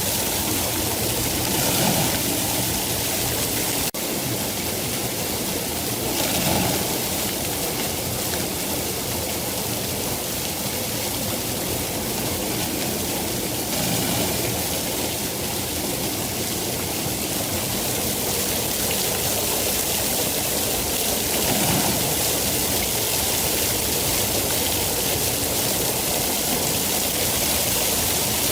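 Steady rain falling, an even hiss, with a single sharp click about four seconds in.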